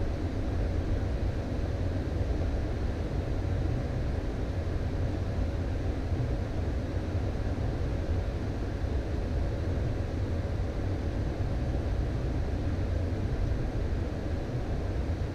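Steady cockpit noise of a Beechcraft Premier I business jet in flight: a constant low airflow and engine drone from its twin turbofans, with a faint steady hum above it.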